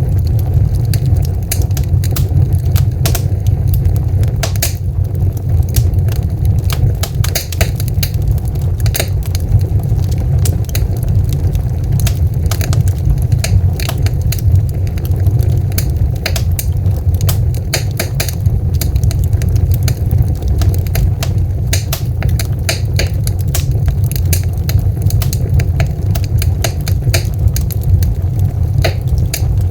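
Wood fire crackling steadily, with dense, irregular sharp pops and snaps over a constant low rumble.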